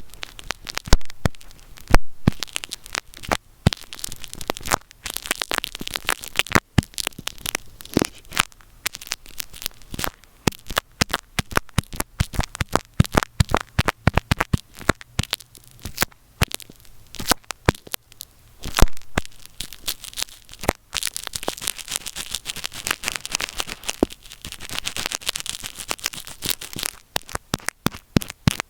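Earphone microphone being rubbed and handled right at the mic, giving rough crackling and scratching with sharp clicks several times a second, and a stretch of hissing scraping near the end.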